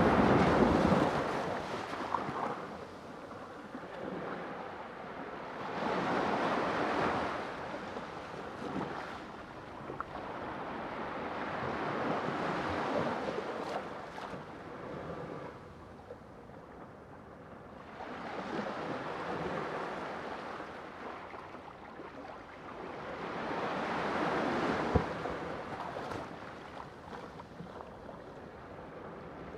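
Sea waves breaking and washing up in slow surges, about one every six seconds, each swelling up and fading away.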